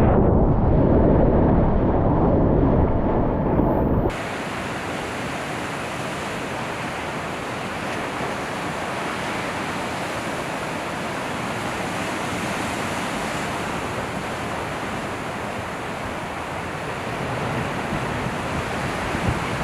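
Ocean surf and wind on the microphone: a loud, muffled low rumble for about four seconds that cuts off suddenly into a steady, quieter hiss of surf and wind.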